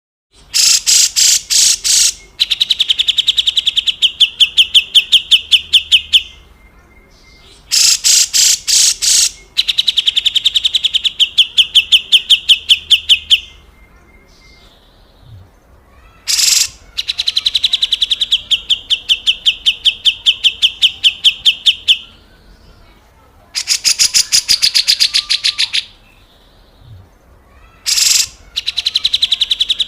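Cucak jenggot (grey-cheeked bulbul) giving its harsh rattling 'besetan kasar' call: repeated bouts, each a burst of coarse rattling followed by a fast, even run of high notes, about five bouts with short pauses between them.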